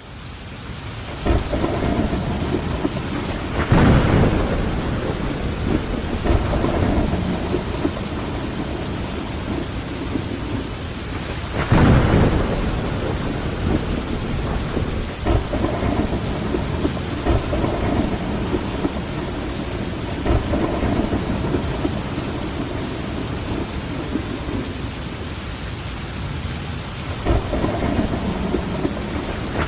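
Heavy rain pattering against window glass, fading in over the first second. Thunder rumbles about 4 and 12 seconds in and again near the end.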